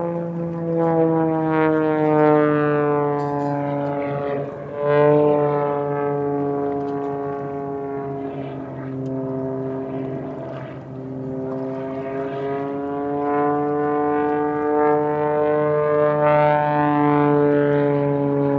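Piston-engined propeller airplane flying past, its engine note sliding slowly down in pitch, then jumping back up about five seconds in and again about eleven seconds in as it swings round, over a steady lower hum.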